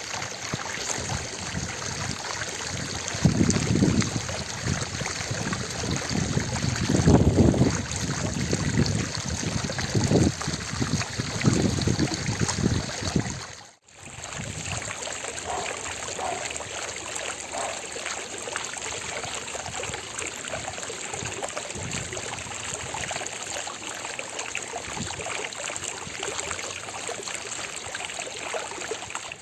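Fountain water splashing and falling into its basin in a steady rush. In the first half there are louder, deeper surges of splashing every few seconds. A brief dropout comes about halfway through, after which the rush is steadier and thinner.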